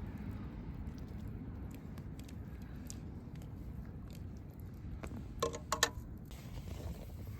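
Campfire burning with scattered crackles over a low steady rumble. A short cluster of louder sharp clicks comes about five and a half seconds in.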